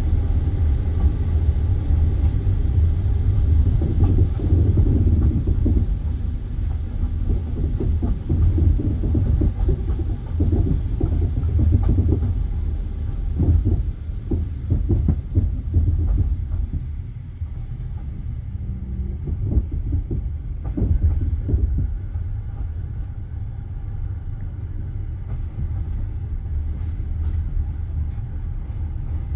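Passenger train carriage rolling on the rails: a steady low rumble with the wheels clacking and knocking, the knocks thinning out a little past halfway.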